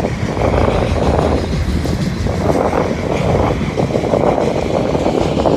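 Freight train rolling past close by: a steady, loud rumble of wheels on rail.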